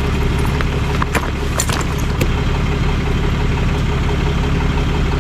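Vehicle engine idling steadily, with a few short sharp clicks between one and two seconds in.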